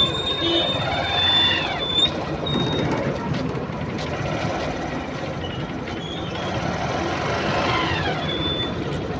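Road traffic and vehicle noise with a continuous rumble. A thin high steady tone sounds for the first two seconds and again near the end, and twice a falling sweep passes, about a second and a half in and again near the end.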